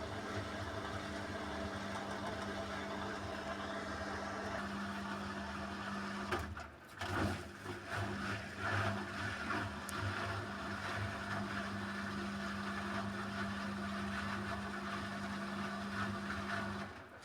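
Beko WMY81283LMB2 washing machine on its final spin, the drum and motor running with a steady drone. The drum is unbalanced and rattles loudly in irregular bursts a few seconds in. The sound drops away suddenly near the end.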